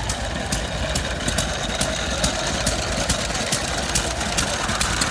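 Old stationary engines running, a steady low rumble with sharp ticks or knocks about three times a second.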